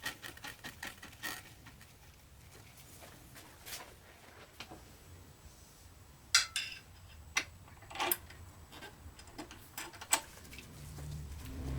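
Metal tools and parts clinking and knocking now and then as they are handled, a few separate sharp clinks. A low hum starts near the end.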